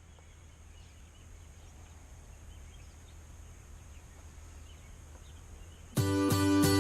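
Faint steady background hiss with a low hum. Near the end, strummed guitar music starts suddenly.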